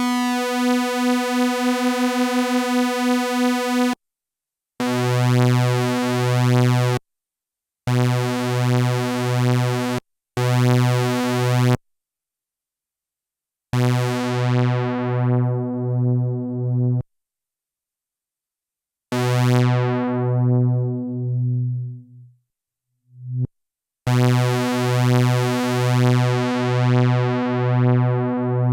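Sequential analog synthesizer playing a series of held low notes, a few seconds each with short silences between. Each note pulses in level several times a second. In two of the notes the bright upper tones close down over a couple of seconds as the filter is swept down.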